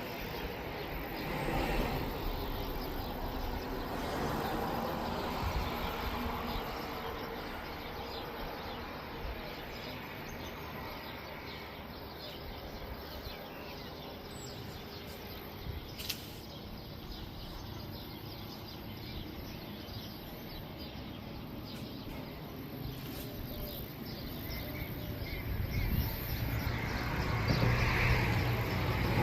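Outdoor background noise with birds chirping, and a low rumble, as of a passing vehicle, growing louder near the end.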